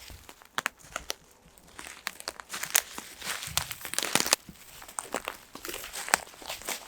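Irregular crunching and crackling rustles made up of many sharp clicks, busiest in the middle.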